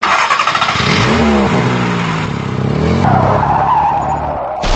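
A car engine revving, with pitch climbing in steps, over loud tyre skidding noise.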